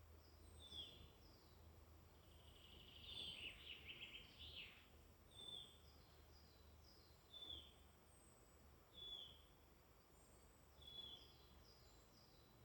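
Faint woodland birdsong from several birds. One bird repeats a short high note that falls in pitch, about every one and a half to two seconds, while thinner, higher notes come and go above it. A louder, jumbled phrase comes about three seconds in. A low steady rumble runs underneath.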